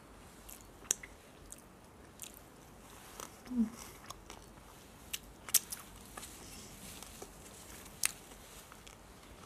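A person chewing food close to the microphone with the mouth closed, with scattered sharp wet mouth clicks and smacks. There is a brief low hum about three and a half seconds in.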